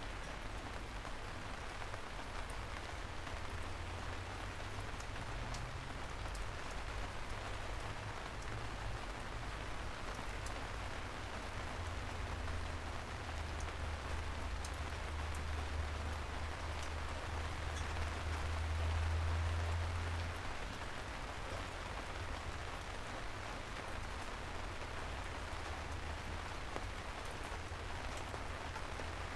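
Steady rain falling, with scattered drop ticks over an even hiss. A low rumble swells about halfway through and then fades.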